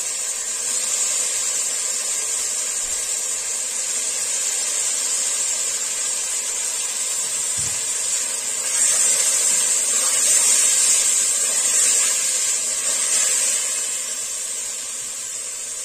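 Raw chicken pieces sizzling in hot oil with onions in a steel pot, a steady high hiss that grows louder for a few seconds from about nine seconds in as the pieces are stirred.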